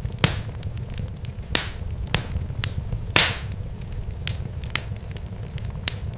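Crackling fire: irregular sharp pops and snaps, a few louder ones with a brief hiss, over a low steady rumble.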